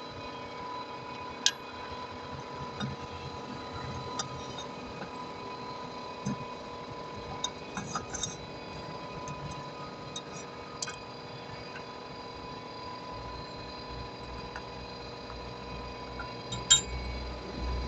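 Scattered light metallic clicks and clinks over a faint steady whine, with a sharper click about a second and a half in and another near the end, and a low rumble rising in the last few seconds.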